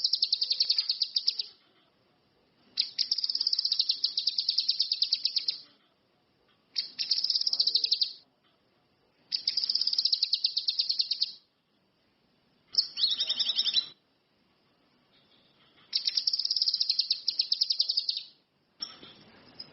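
Cucak kinoi (ranti mas) songbird singing in high, fast trilled phrases, six of them, each lasting one to three seconds with short pauses between.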